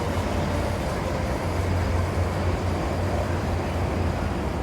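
Steady low engine rumble without pauses or changes.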